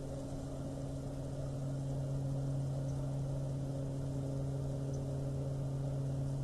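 Steady low drone of a Great Lakes bulk freighter's twin 20-cylinder GM diesel engines, running evenly with a constant hum and no change in pitch.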